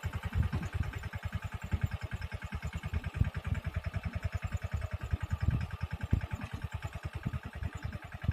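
Mahindra 215 mini tractor's single-cylinder diesel engine running with a steady, fast chugging beat of about ten pulses a second.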